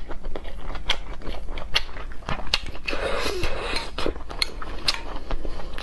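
Close-miked wet chewing and smacking mouth sounds with frequent sharp clicks. About three to four seconds in, chopsticks clink and swish in a glass bowl of dipping sauce.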